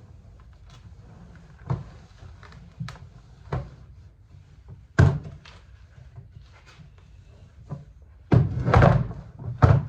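A series of sharp knocks and clunks as hard plastic parts are handled and set down, ending in a longer, louder clatter with one last knock.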